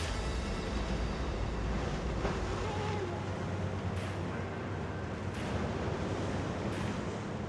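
Sea waves washing against a rocky shore, a steady rush with a few sharper splashes in the second half, with wind buffeting the microphone.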